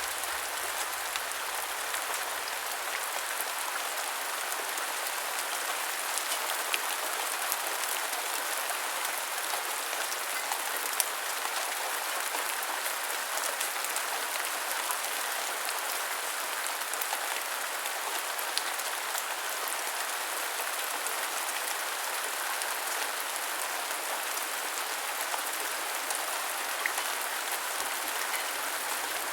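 Continuous heavy rain falling, a steady hiss of dense drops with scattered sharper drop ticks.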